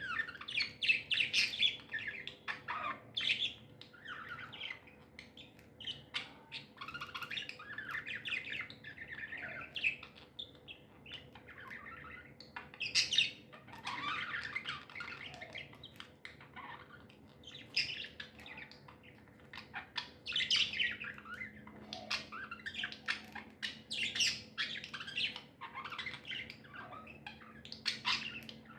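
Pet budgerigars chirping and chattering almost without pause, with short sharp squawky calls mixed in.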